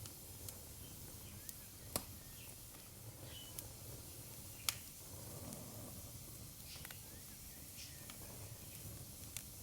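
Wood fire crackling in a fireplace: scattered sharp pops and snaps, two louder ones about two seconds and nearly five seconds in, over a faint low rumble.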